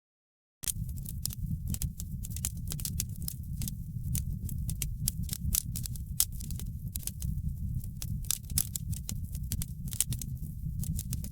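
Wood fire crackling in a fireplace: a steady low rumble of burning with frequent sharp pops and snaps. It cuts in after about half a second of dead silence.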